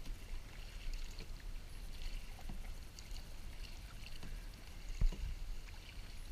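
Kayak paddling on open water: faint, irregular splashes and drips of paddle blades in the water over a low wind rumble, with one low knock about five seconds in.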